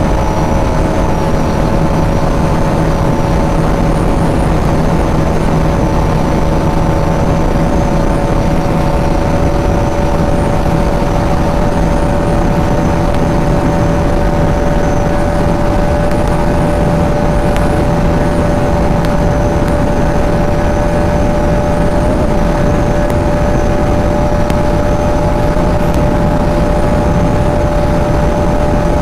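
Bajaj Pulsar NS200's single-cylinder engine held at high revs in top gear during a top-speed run, its pitch creeping slowly upward as speed builds, under a steady rush of wind noise.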